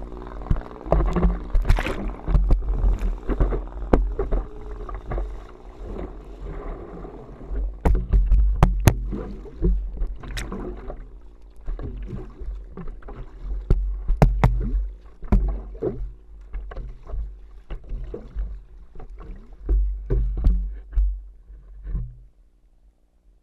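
Water splashing and rushing around a stand-up paddleboard riding a motorboat's wake, with repeated paddle strokes and a heavy low rumble of wind on the microphone over a faint steady hum. The noise cuts off suddenly near the end.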